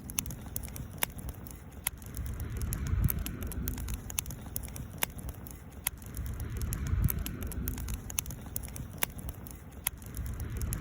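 Wood campfire crackling, with irregular sharp pops over a low rumble that swells and fades twice.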